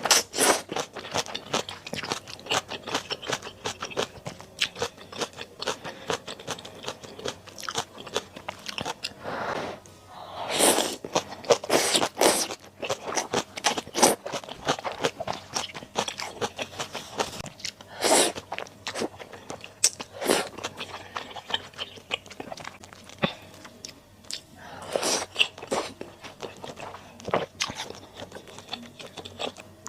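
Close-miked eating sounds of a person eating malatang: steady chewing and crunching with many small wet clicks, and a few louder, longer bursts now and then.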